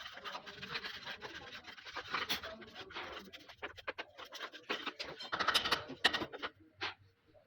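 Hand tool scraping and rubbing on wood in quick, irregular strokes, with scattered clicks, fading out near the end.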